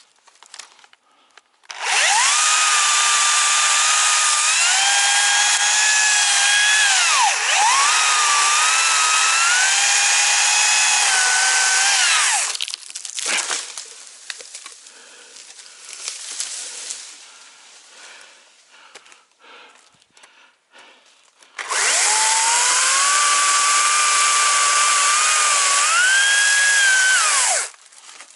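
Chainsaw running at full throttle and cutting wood in two long runs, the first about ten seconds, the second about six, its pitch sagging and rising as the chain bites into the wood.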